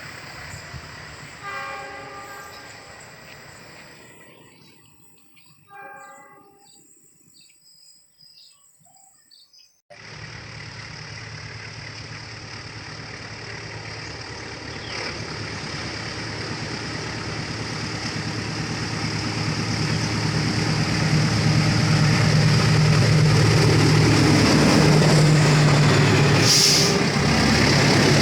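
Diesel-hauled train approaching, its engine drone and wheel noise growing steadily louder until it is loud. A few short horn-like blasts sound near the start, and the sound drops low and cuts off abruptly about ten seconds in before the approach.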